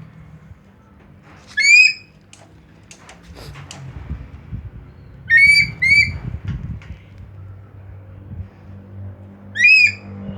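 A male eagle calling: four short, shrill, high calls, one about two seconds in, a quick pair in the middle and one near the end.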